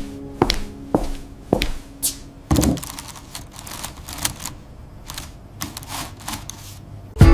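A series of sharp clicks and knocks, irregular, about one or two a second, with a heavier knock about two and a half seconds in and a loud thump near the end.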